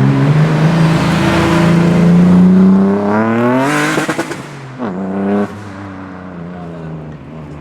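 Modified car engine accelerating hard, its note climbing steadily for several seconds, then crackling at a gear change about four seconds in. It pulls briefly again, lifts off suddenly, and the engine note drops and fades as the car moves away.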